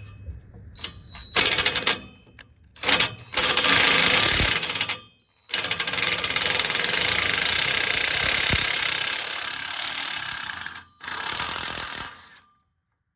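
Power wrench running in several bursts, the longest about five seconds, spinning off a 14 mm nut that holds the exhaust header to the catalytic converter, a nut the owner finds seized on its stud. A rapid, even rattle.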